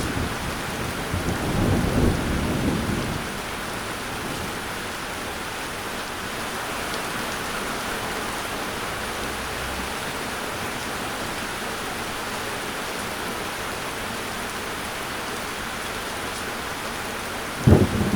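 Steady rain falling, with a low thunder rumble at the start that fades out after about three seconds, and another rumble starting right at the end.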